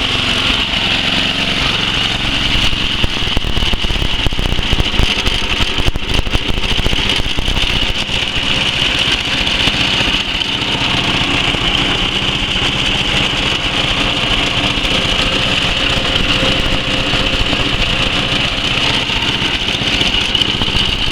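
11 hp Tecumseh Snow King single-cylinder engine on a Murray Select 11/29 snowblower running steadily, just after a hard first cold start of the season following winter storage.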